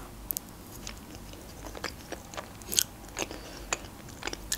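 Close-up mouth sounds of someone chewing soft chocolate layer cake: a scatter of short wet clicks and smacks, a couple of them louder.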